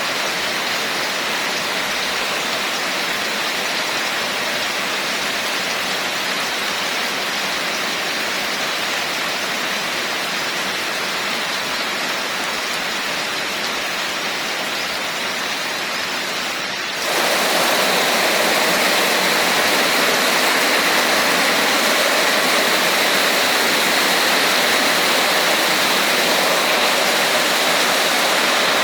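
Steady heavy rain, an even hiss of water. About 17 seconds in it jumps abruptly to a louder, brighter downpour, as at a cut between two recordings.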